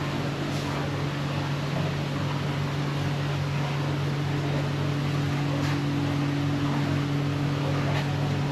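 Steady low mechanical hum, a constant drone under an even hiss, with a few faint clicks.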